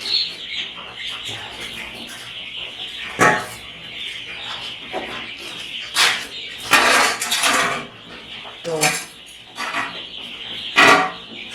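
A brood of three-day-old chicks peeping steadily, with loud clatters and knocks of things being handled about three, six, seven, nine and eleven seconds in.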